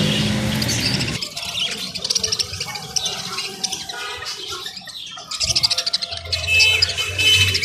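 Birds chirping and calling in short, high, scattered notes. Before them, a dense sound with a low hum cuts off suddenly about a second in.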